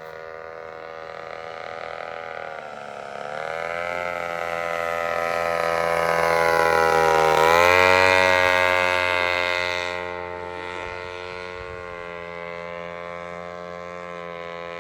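52cc two-stroke brushcutter engine on a styrofoam RC plane buzzing in flight. It grows louder as the plane approaches, drops in pitch as it passes about seven and a half seconds in, then runs on more quietly.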